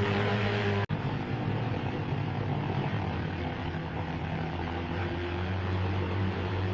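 A steady, low engine-like drone with a hum, briefly cut off just under a second in.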